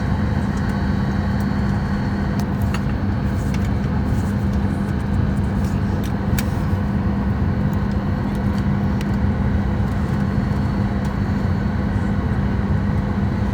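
Steady cabin noise inside a Boeing 737 MAX 8 during boarding: air-conditioning airflow with a constant low drone. A few faint clicks sound over it.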